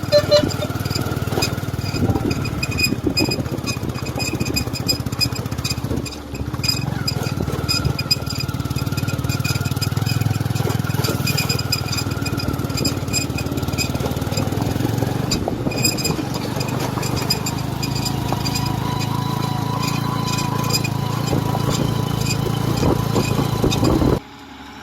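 Heavy diesel machinery running steadily with a low drone and frequent clicks and knocks, dropping off abruptly near the end.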